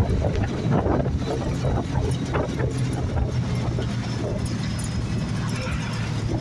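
Inside a moving bus: a steady low engine drone with frequent irregular knocks and rattles from the bodywork.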